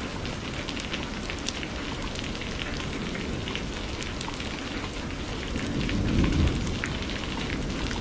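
Steady rain with individual drops ticking sharply, and a low rumble of thunder that swells about six seconds in and fades again.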